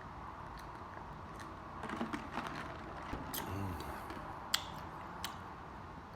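Close-miked eating sounds: wet mouth clicks and lip smacks while chewing, a few sharp ones standing out, with a brief low hum about halfway through.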